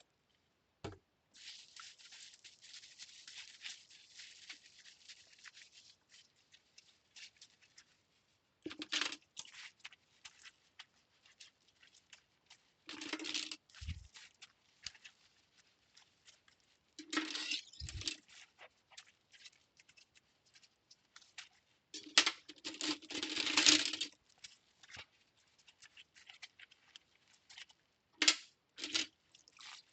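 Cutlery being washed by hand: metal utensils clinking and rattling together in short clusters every few seconds, the longest spell about two-thirds through, after a soft hiss in the first few seconds.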